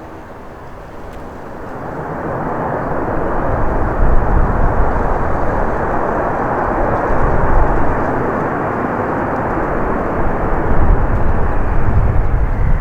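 Airbus A321 jet engines heard as the airliner passes close, the noise swelling from about two seconds in and staying loud, with a falling whine near the end.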